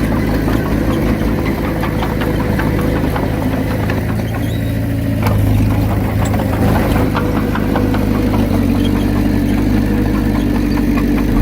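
Diesel engine of a Komatsu D31P crawler bulldozer running steadily, with a light rattle of clicks throughout; the engine note grows a little stronger about halfway through.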